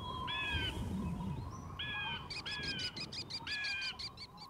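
Forest ambience of bird calls: four clear calls of about half a second each, dipping in pitch at the end, and from about halfway a fast run of short high chirps.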